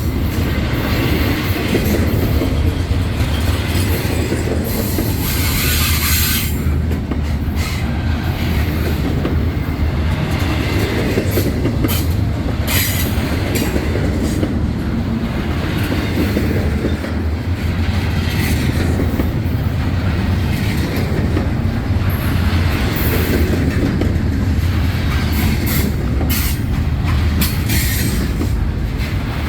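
Freight train rolling past: a steady low rumble of cars, with wheels clacking and squealing on the rails, and sharp high squeals in places.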